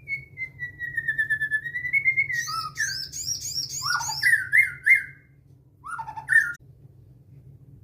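A sogon songbird singing: a long trill that sags in pitch and climbs again, then a run of varied, quick chirping phrases with high whistled notes, and a last short burst of song before it stops. A faint low hum continues underneath.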